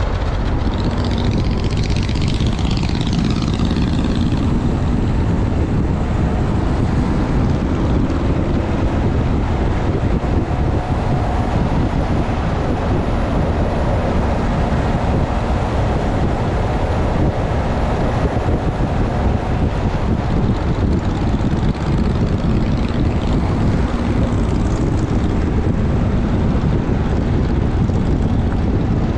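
Motorcycle riding at a steady speed: a continuous engine drone mixed with heavy wind rumble on the microphone.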